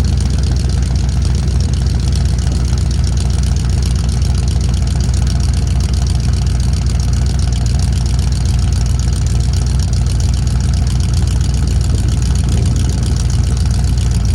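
Engine of an old vehicle idling steadily, cold-started in about 0°F weather.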